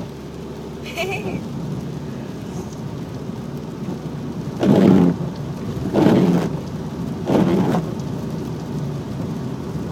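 Steady rain and wet-road noise heard inside a moving car. In the second half, three louder swishes come about a second and a quarter apart: the windshield wipers sweeping, which can be really loud.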